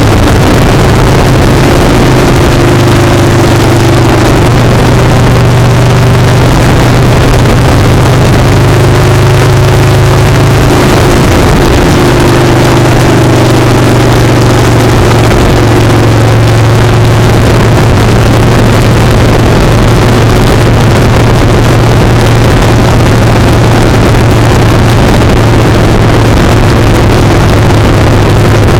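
Motorcycle engine running steadily at speed, heard close from a camera on the foot peg, with heavy wind and road rush over it. The engine note holds fairly even, with small shifts in pitch during the first half.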